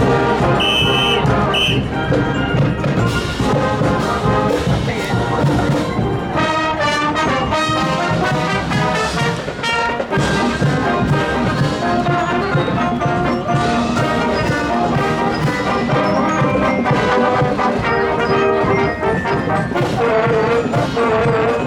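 Marching wind band playing on parade: brass, trombones and trumpets among them, over a steady drum beat.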